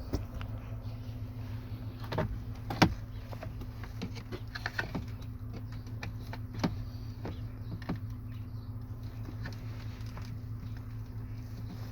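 A steady low hum with a few scattered clicks and knocks, the loudest about three seconds in.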